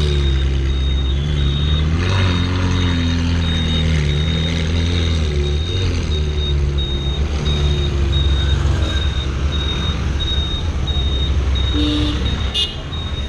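Car engine running at low revs, its pitch rising and falling slightly now and then, with a thin high beep repeating quickly over it.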